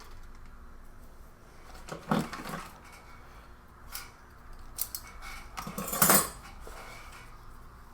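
Spoon scraping and clinking against a bowl while stirring and scooping a stew, in several short strokes, the loudest about six seconds in.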